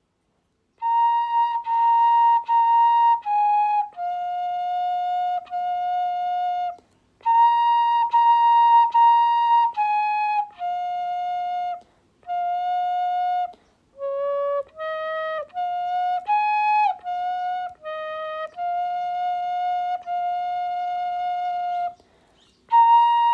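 A slow, simple tune played one note at a time on a flute-like wind instrument, in short phrases with brief pauses between them. The notes are mostly held, with a quicker run of notes in the middle.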